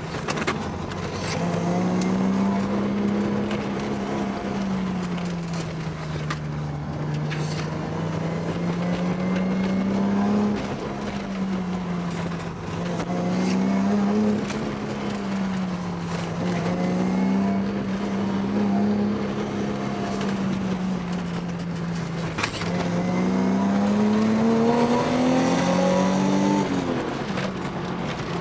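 Car engine under way, its note rising and falling smoothly as the revs change. Near the end it climbs steadily for a few seconds, then drops off suddenly.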